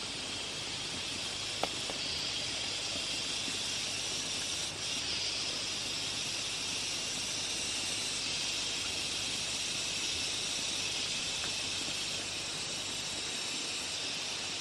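Steady high-pitched hiss, with a single sharp click about a second and a half in.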